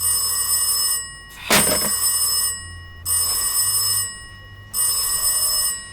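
Telephone ringing: four rings of about a second each, evenly spaced, with a short sharp knock just before the second ring.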